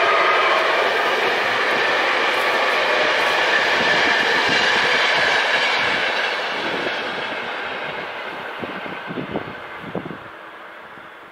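Passenger train coaches rolling past at speed, with steady wheel-on-rail noise that fades away after about six seconds as the train recedes. A few faint knocks come near the end.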